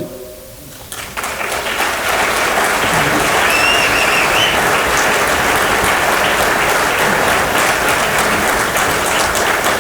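Large audience applauding at the end of a barbershop quartet song. The clapping swells in about a second after the last chord and stays steady and dense.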